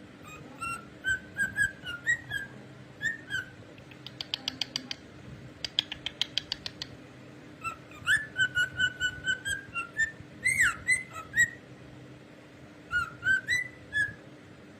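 Pet cockatiel whistling its song in short phrases of clear repeated notes with a few swooping slides up and down. Between phrases come short runs of rapid clicks.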